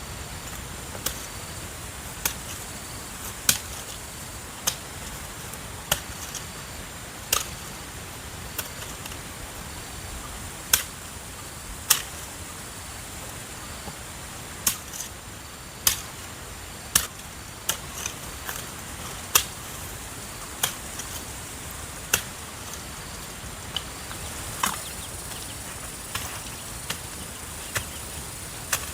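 Sharp strikes of a hand tool, repeated about once a second, some louder than others, over a steady hiss.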